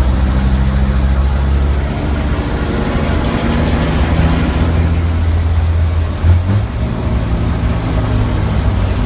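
A racing truck's diesel engine running hard, heard from the cab, with a thin high whine that climbs slowly and then falls away in pitch. About six seconds in there is a brief change in the engine note.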